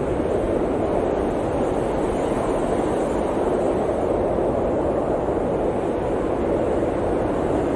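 Blizzard wind blowing as a steady, even rush of noise, with no gusts or breaks.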